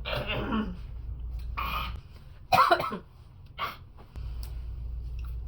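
A young woman coughing and clearing her throat in a few short bursts, the loudest about two and a half seconds in.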